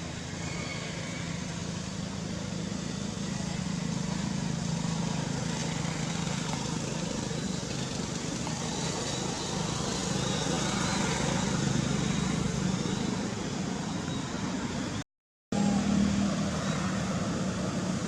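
Steady outdoor background noise with a low hum, like distant traffic, broken by a brief total silence about fifteen seconds in.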